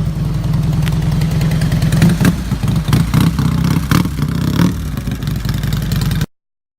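Motorcycle engine running loudly with a low, steady note that wavers in pitch through the middle, then cuts off suddenly near the end.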